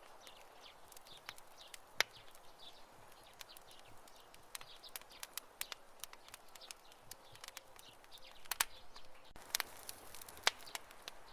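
Campfire crackling: burning wood gives off irregular sharp pops and snaps over a faint steady hiss, with one louder pop about two seconds in and a flurry of pops near the end.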